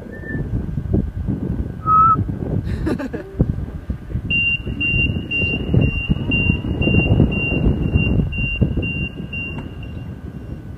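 Door-closing warning of a Sydney Trains Millennium (M set) train: a few short falling chime notes, then an even high beeping about twice a second for around six seconds. Underneath runs the low rumble of the train, with a single knock about three seconds in.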